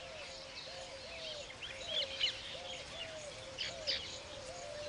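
Weaver birds chirping in short high notes, a few louder ones about two seconds in and near the end, over another low, short call repeating about every half second.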